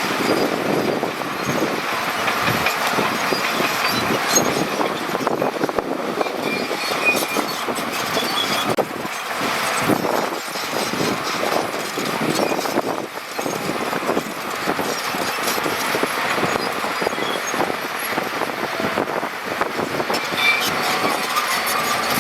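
Heavy earthmoving machinery working: continuous engine noise with a dense crunching, knocking rattle of stone and metal, with no break.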